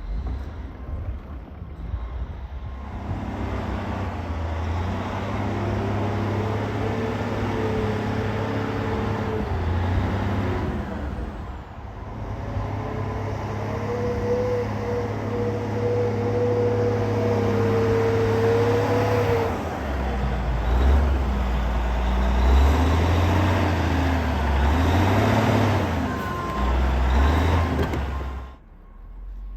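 A motor engine running, its pitch held steady for several seconds, then dropping about two-thirds of the way in and rising and falling unevenly before the sound cuts off near the end.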